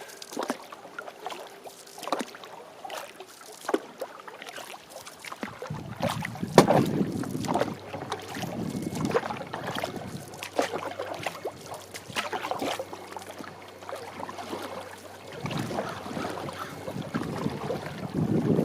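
Canoe paddle strokes dipping and splashing in the water, with wind buffeting the microphone through the middle stretch.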